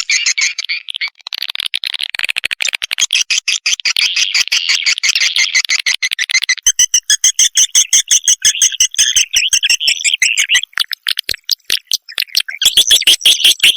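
Swiftlet lure recording of young swiftlets' calls: rapid, dense high-pitched chirping and twittering, many calls a second. The pattern changes about halfway through and thins to sparse clicks briefly before the chirping picks up again near the end.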